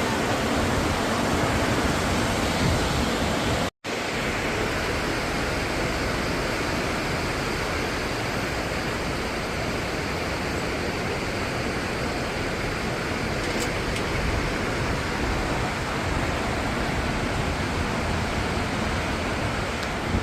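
Steady rushing roar of the Niagara River's rapids and whirlpool in the gorge, broken by a momentary dropout about four seconds in.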